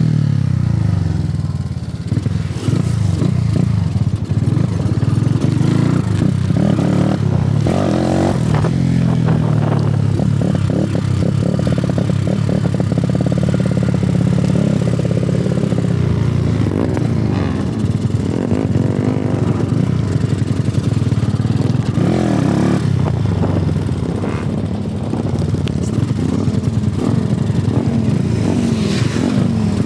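Honda CG single-cylinder four-stroke motorcycle engine running under way, its revs rising and falling again and again.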